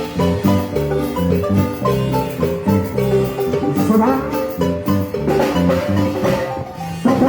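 Marimba ensemble playing an upbeat tune: quick mallet-struck runs over a bass line, with light percussion.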